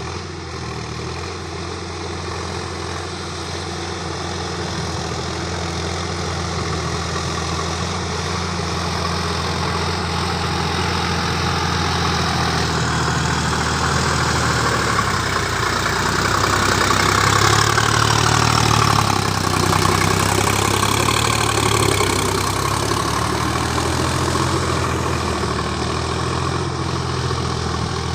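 Sonalika DI 50 hp tractor's diesel engine running steadily. It grows gradually louder and peaks partway through with its pitch shifting, then eases off a little.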